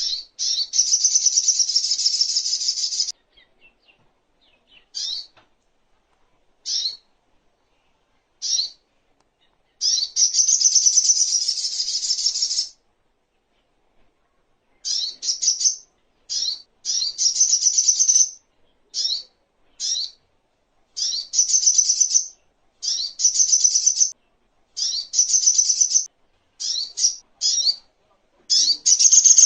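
Sogok ontong songbird calling: high-pitched rapid chattering trills lasting up to about three seconds, alternating with short single chirps, with a pause of about two seconds near the middle.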